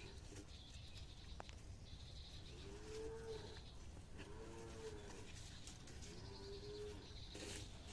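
Farm animals calling: four short, arching calls, each under a second, starting about three seconds in, over a low steady background noise.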